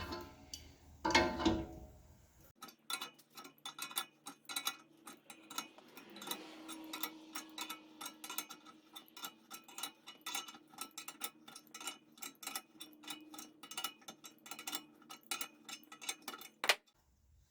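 A few metal clanks, then a long run of quick, irregular metallic clicks from tools working a gear puller to draw the fan blade off an old electric motor's shaft.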